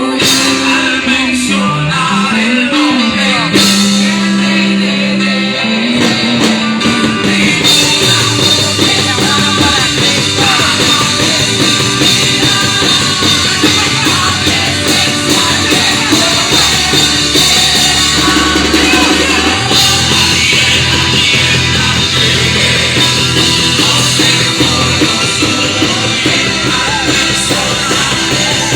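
Live church worship band playing loud rock-style music with singing. About eight seconds in, the drum kit joins with cymbals and the full band.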